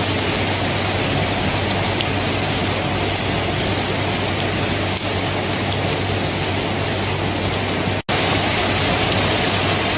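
Steady, dense rain falling, an even hiss with no distinct thunder. The sound cuts out for a split second about eight seconds in and then resumes.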